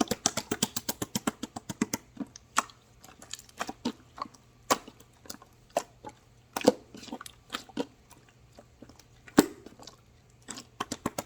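Slime being squeezed and poked, giving sharp wet clicks and pops: a quick run of them at first, then scattered pops with a few louder ones, and a quick run again near the end.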